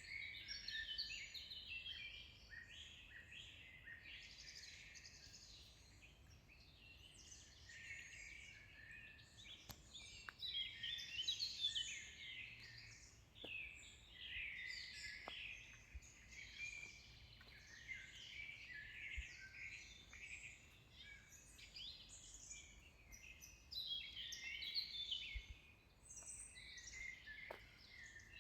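Several songbirds singing at once in a forest: a dense, continuous chorus of overlapping high chirps and trills.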